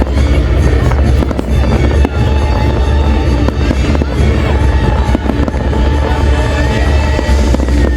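A fireworks display going off in a dense run of bangs and crackles. Loud music with a heavy bass plays under it.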